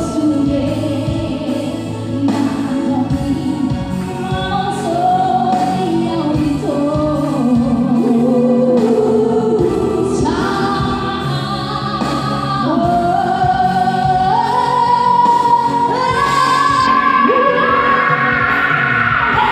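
Group of women singing together in harmony, a choir-style gospel song with long held notes.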